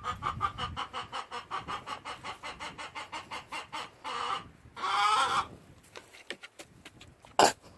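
Hens clucking: a fast, even run of clucks for about four seconds, then two longer squawks about four and five seconds in, during a pecking-order squabble between hens. A short sharp click near the end.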